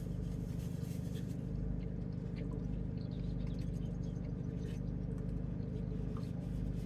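Steady low hum in a car cabin, with faint small clicks and rustles of people eating.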